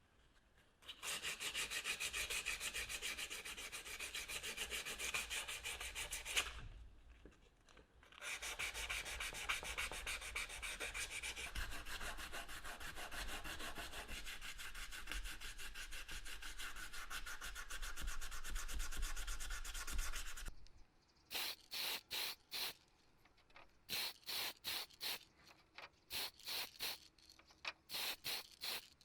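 Fast, even sanding or scrubbing strokes on a part, in two long runs with a short pause between. These are followed by a string of short separate rubbing bursts.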